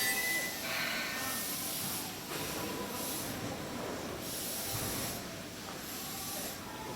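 Seibu 2000 series electric train coming to a stop, a last faint brake squeal in the first second, then several short bursts of compressed-air hissing about a second apart from its air brakes and pneumatics.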